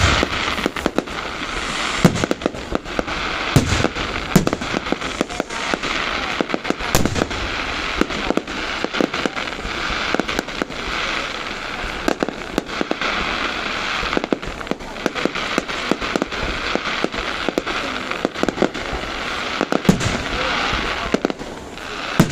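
Aerial fireworks going off continuously: a dense, steady crackling with many sharp bangs at irregular intervals, easing briefly near the end.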